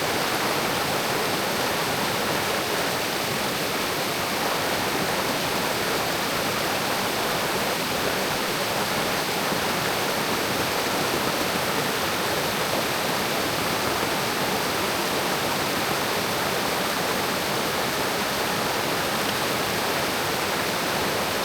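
Mountain creek rushing over rocks, a steady, even sound of running water.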